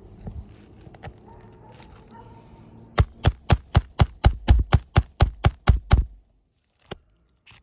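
Roofing hammer striking a roof in a quick, even run of about fourteen sharp blows, roughly four a second, starting about three seconds in, then one more blow a second later.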